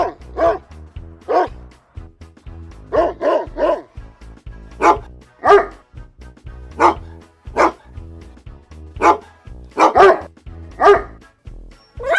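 A dog barking repeatedly, single barks and quick pairs roughly once a second, over background music.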